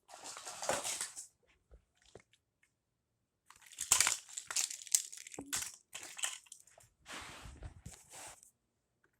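Rustling, crunching handling noise in three bursts with a few sharp clicks between them, as of toys being handled by hand.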